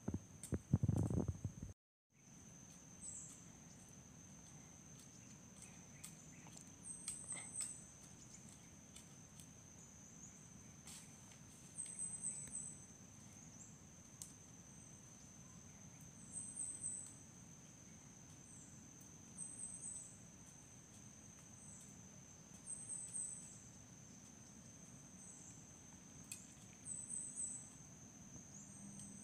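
Rural outdoor ambience of insects: a steady high-pitched drone, with short clusters of high chirps repeating every few seconds. A loud low rumble of handling noise comes in the first second, then the sound cuts out briefly.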